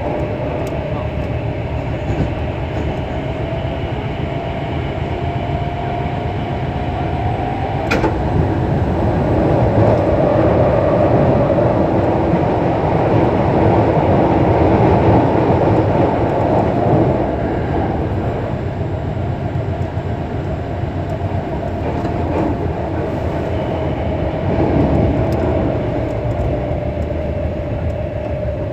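Hankyu 6300 series electric train running at speed, heard from inside the car over the line breaker: a steady rumble of wheels on rail with a humming tone that rises slightly. A single sharp clack comes about eight seconds in, then the running noise grows louder for several seconds before the hum returns and slowly falls.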